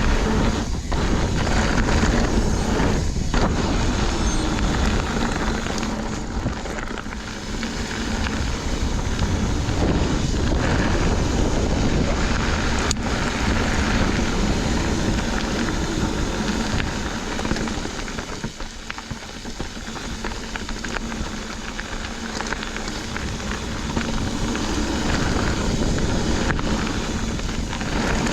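Mountain bike riding fast on a dirt trail: a steady rush of wind noise on the microphone mixed with the tyres rolling and the bike rattling over the ground. It eases off briefly twice, about a third of the way in and again past the middle.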